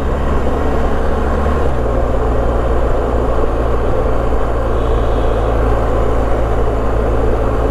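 BMW R1250GS boxer-twin motorcycle engine running steadily at road speed under a rush of wind and road noise. The engine note steps down a little about two seconds in.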